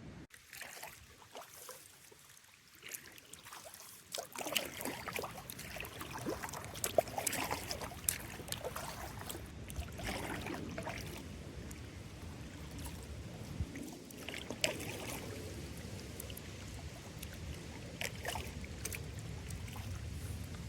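Kayak paddle strokes splashing and dripping in river water, picking up about four seconds in as irregular splashes.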